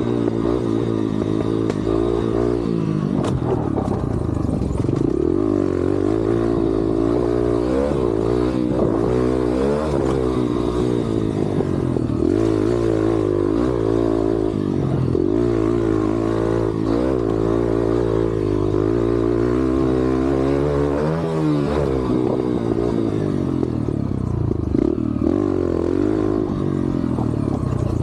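Yamaha TT-R125 dirt bike's single-cylinder four-stroke engine being ridden hard, its pitch rising and falling over and over as the throttle opens and closes.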